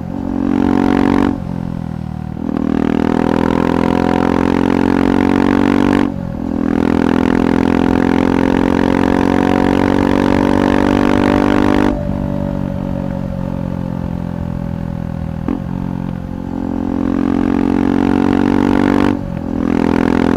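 KTM 390 Adventure Rally's single-cylinder engine running through a Red Rooster aftermarket exhaust while being ridden. The engine holds steady pulls under throttle, with short dips in the note at gear changes about a second in, around six seconds and near the end. About twelve seconds in the throttle eases off and the revs fall, then the note climbs again.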